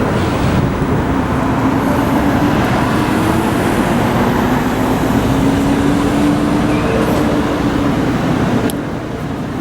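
Wind and road rush on a bicycle-mounted action camera's microphone, with a motor vehicle's engine hum slowly rising and falling underneath. The noise drops a little near the end.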